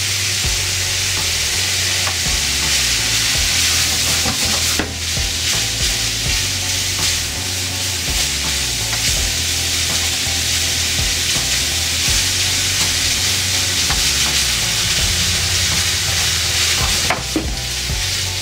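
Thinly sliced beef with ginger and chili sizzling as it is stir-fried in a frying pan, a wooden spatula scraping and stirring through it to break up the meat. Two sharper knocks of the spatula on the pan come about five seconds in and near the end.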